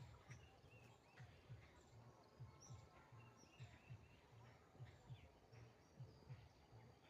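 Near silence: faint scattered bird chirps over a soft low pulsing about twice a second.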